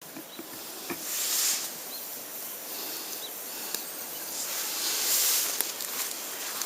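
Campfire burning: a steady hiss that swells twice, with a few sharp crackling pops from the wood.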